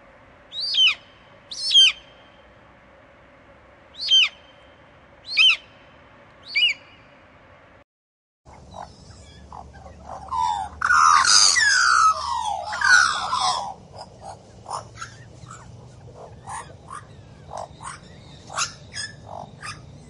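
An eagle gives five short, high-pitched falling calls in the first seven seconds. After a brief gap, a magpie chatters loudly and harshly for about three seconds, then gives scattered softer calls.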